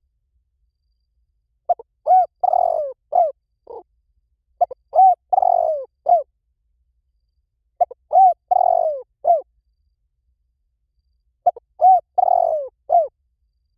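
Spotted dove cooing: four phrases, each a few short arching coos around one longer, rougher coo, with pauses of a second or two between them. It is a dove-call recording of the kind played to lure spotted doves in.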